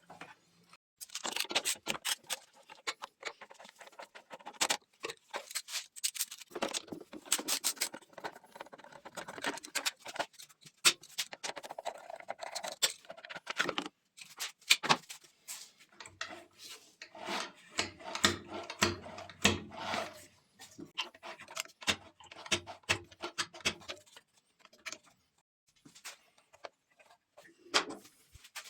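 Irregular clinks, taps and scrapes of hand tools and metal engine parts being handled on a scooter engine teardown, with a faint low hum in the middle stretch.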